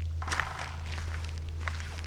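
Footsteps crunching over the dry forest floor of leaves and grass, two clearer steps about a third of a second in and near the end, over a steady low hum.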